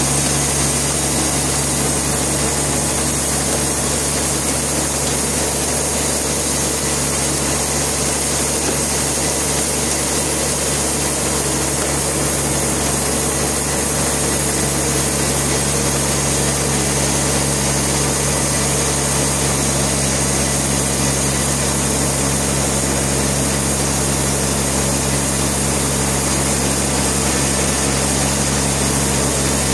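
Sawmill machinery running steadily, a constant engine-like hum with a dense high hiss over it.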